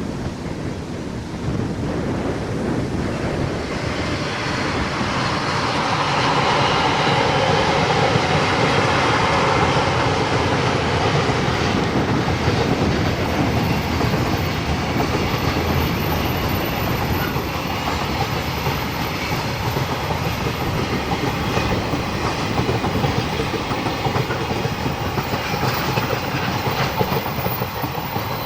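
Freight train running past on the line, its wagons' wheels clattering over the rail joints; the sound builds over the first few seconds, is loudest a few seconds later, then holds steady.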